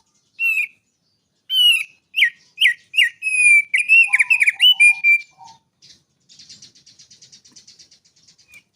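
A small songbird singing loud, clear whistled notes, a string of quick downslurred phrases one after another. In the last couple of seconds it gives a softer, fast rattling trill.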